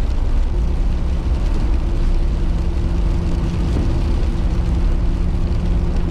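Car interior noise while driving on a snowy road: a steady low rumble of engine and tyres, with a steady hum coming in about half a second in.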